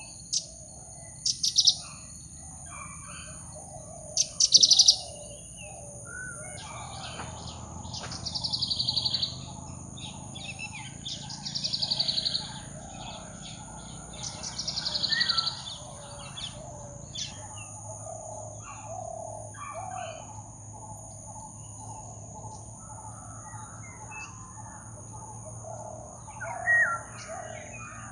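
Jungle birds calling. A few sharp, loud calls come in the first five seconds, then three rapid trilled phrases a few seconds apart. Softer bird chatter and a steady high insect drone run underneath.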